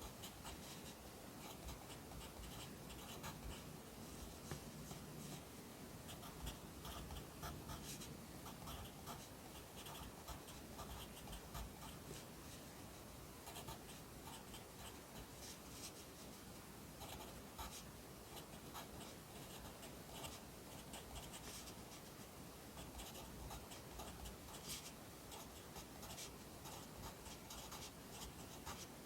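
Pencil writing Korean characters by hand on paper: a steady run of short, faint strokes in quick succession.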